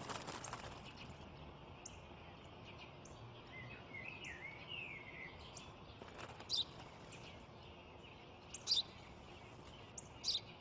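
Small birds chirping faintly: short, sharp high chirps every second or two, the loudest near the end, and one brief warbling phrase about four seconds in.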